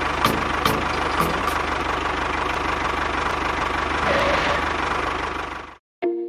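Small engine running steadily with a fast, even knock, cutting off abruptly near the end.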